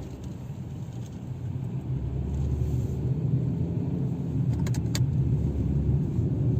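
2018 Kia Rio driving, its road and tyre rumble growing louder as it gathers speed, with no bearing hum now that a new front hub bearing is fitted. A few light clicks about five seconds in.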